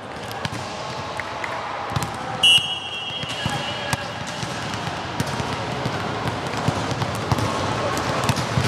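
Indoor volleyball match: a referee's whistle blows once, briefly, about two and a half seconds in, over a steady din of ball hits, knocks and voices echoing in a gym.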